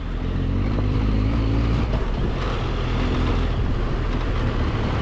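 Large adventure motorcycle engine running steadily, with road noise over it.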